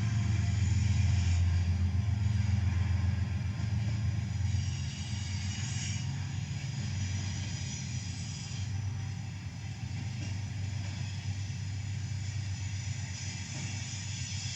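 Diesel-electric locomotive engines of a four-unit BNSF consist, running with a deep rumble that eases off about four seconds in and settles lower after that.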